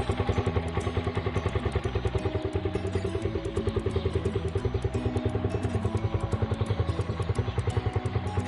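Small single-cylinder motorcycle engine idling with a rapid, even firing beat and no valve tick, which the owner credits to repeated tune-ups.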